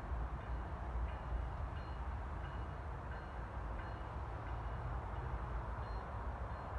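A train going by: a steady low rumble with a haze of rolling noise and a few faint short high tones.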